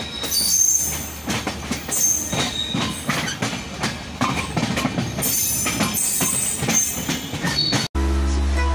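Passenger train coaches rolling over rail joints and points, heard from the open doorway of a moving coach: irregular clacking of the wheels with brief high-pitched wheel squeals over a steady rumble. Near the end it cuts off suddenly to music.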